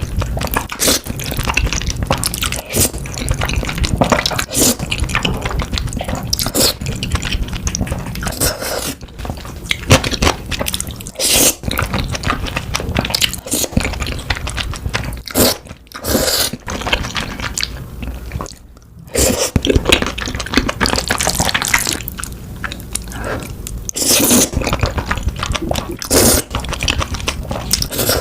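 Close-miked mukbang eating sounds: a person biting and chewing cheesy rose tteokbokki, with many short sharp mouth sounds in quick succession and two brief pauses past the middle.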